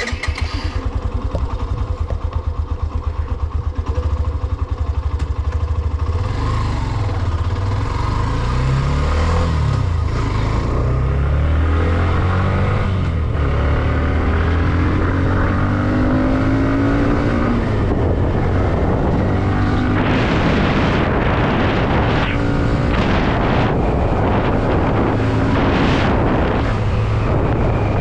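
Hero Xtreme 125R motorcycle's single-cylinder engine running on the move, its note rising and falling a few times about a third of the way in. A rushing noise grows stronger in the second half.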